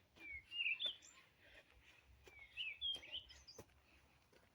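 A songbird singing: two short chirping, warbling phrases about two seconds apart, with a few faint clicks.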